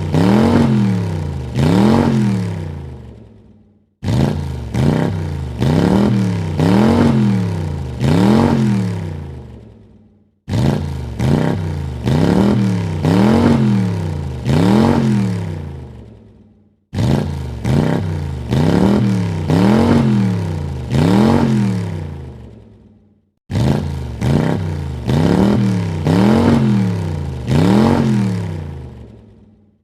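Car engine revved in a few quick blips, the pitch climbing and dropping three or four times before it dies back down. The same rev sequence repeats five times with a short silent gap between.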